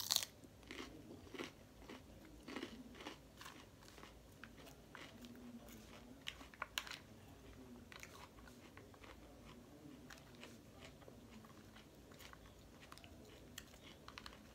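A mouthful of lettuce salad with chicken nugget pieces being bitten and chewed close to the microphone: a string of short, crisp crunches, thickest in the first half, with the loudest just as the bite is taken.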